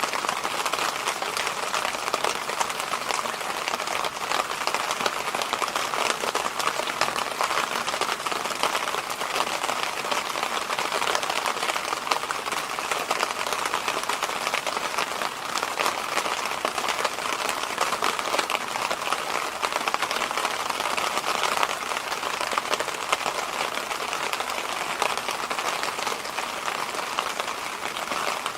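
Electric fan running steadily: an even rush of air that does not change, with little low rumble.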